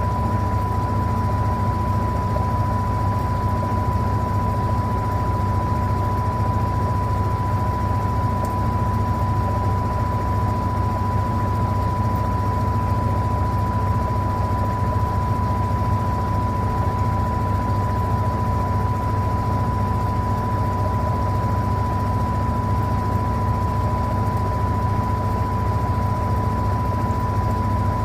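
Electrolux LTA15 top-loading washing machine running steadily through its cycle, a constant low hum with a steady high whine over it.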